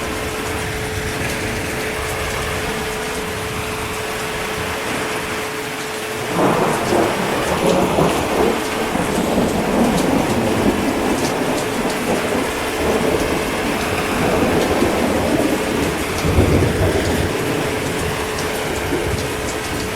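Steady heavy rain falling. About six seconds in, a long rumble of thunder sets in under the rain and carries on, swelling to its loudest near the end.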